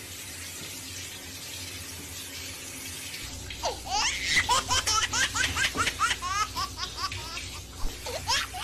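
Handheld shower head spraying water over a cat in a bathtub, a steady hiss. From about three and a half seconds in, high-pitched laughter in quick bursts comes over it, stopping for a moment and starting again near the end.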